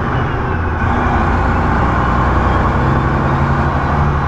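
Semi truck's diesel engine running steadily with road noise. The engine's pitch shifts slightly once or twice.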